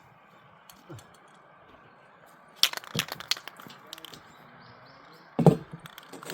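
A quick cluster of sharp knocks and clicks about three seconds in, then one loud, heavier thump near the end.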